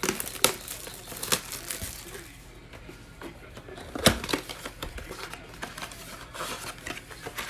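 Trading card blaster box and foil card packs being torn open and handled: crinkling wrapper and a scatter of sharp snaps, with one louder knock about four seconds in.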